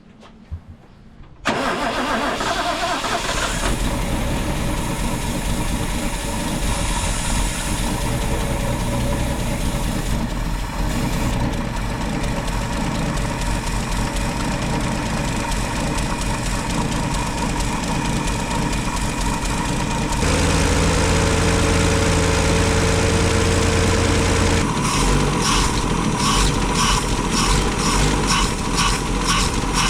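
Holden EJ car engine starting about a second and a half in and running on its freshly rebuilt carburettor. It runs steadily, turns a little louder and smoother for about four seconds near twenty seconds in, then settles to an even, pulsing idle.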